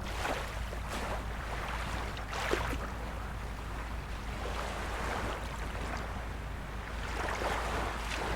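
Small waves of a calm sea lapping, with a few soft splashes a couple of seconds apart over a steady low rumble.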